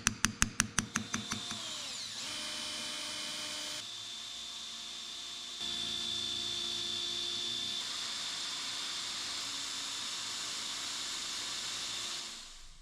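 Fast metal hammer strikes, about six a second, stop a second or so in. A power tool's motor then runs steadily with a high whine, its sound changing abruptly several times before it fades near the end.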